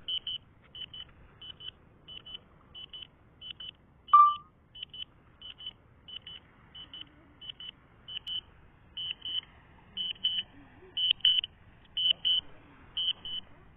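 DJI Spark flight-control warning beeps, short and high-pitched and often in pairs, repeating about twice a second. They signal that the drone has lost its control signal and is returning home. About four seconds in comes a single louder, lower alert tone.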